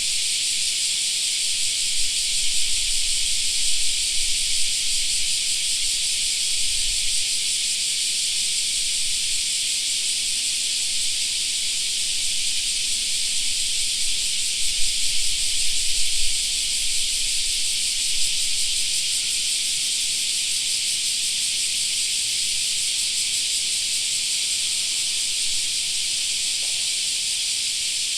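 A dense chorus of cicadas shrilling without a break, a steady high-pitched hiss. A low rumble rises under it twice.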